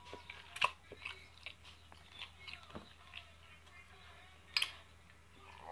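A person chewing and eating close to the microphone: soft wet mouth sounds and small clicks, with a sharper click about half a second in and another near four and a half seconds in.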